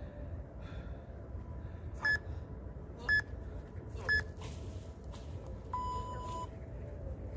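Interval timer counting down the end of a 30-second rest: three short high beeps about a second apart, then one longer, lower beep that signals the start of the next set.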